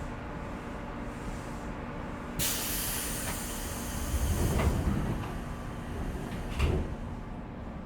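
Pneumatic doors of a 415-series electric train closing. A sudden hiss of air comes about two and a half seconds in, followed by two heavy thumps as the doors shut. Under it runs the steady hum of the stopped train's equipment.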